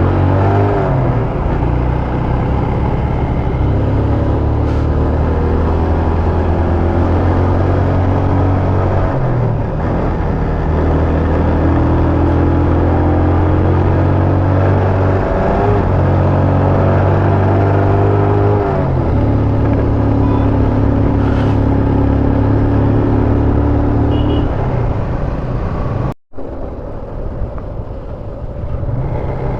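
Motorcycle engine running under load on a winding mountain climb, its pitch dropping and rising again several times as the rider changes gear and throttle. The sound cuts out for a moment near the end.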